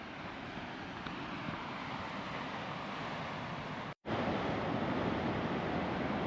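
Ocean surf washing on a rocky shore with wind on the microphone, a steady rushing that grows slowly louder. It cuts out for an instant about four seconds in and comes back louder.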